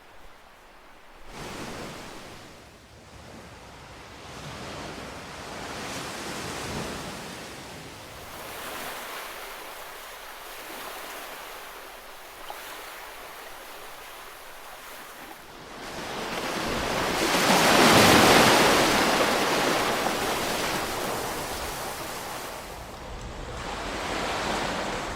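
Ocean waves breaking, the surf rising and falling in several swells; the largest wave builds about two-thirds of the way through and fades over a few seconds.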